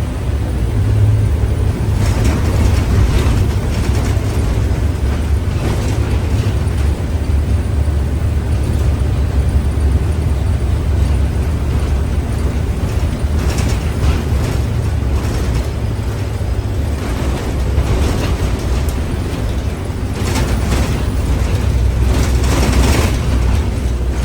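City bus running, its low engine and road rumble heard from inside the cabin, with intermittent rattles and clunks.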